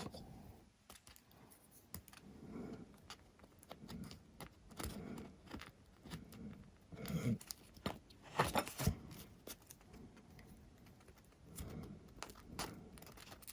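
Workbench handling noises: scattered light clicks, taps and rustling as small parts and tools are picked up and put down, with a couple of sharper knocks about halfway through.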